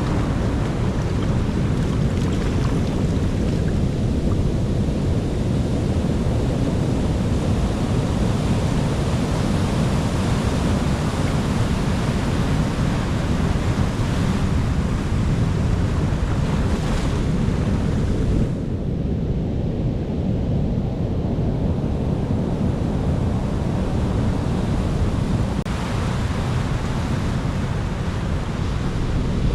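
Sea waves and surf washing continuously, a steady deep rush. The hiss of the surf drops away for a few seconds about two-thirds of the way through, then builds again.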